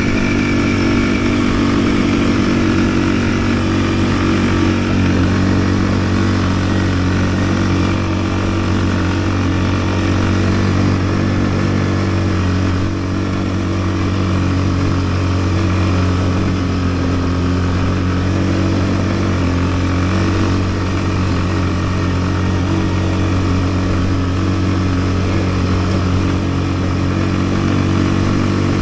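Yuki Tract 200 ATV engine running steadily at an even pitch.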